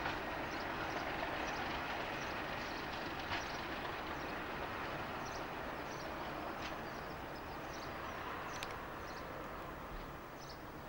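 A train running past on the line, a steady rushing noise that slowly fades, with short high chirps and a few sharp clicks over it.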